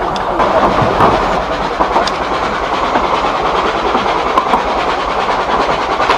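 Vale of Rheidol narrow-gauge train running on the track, heard from aboard: a steady rattle of the carriage with scattered wheel clicks over the rail joints.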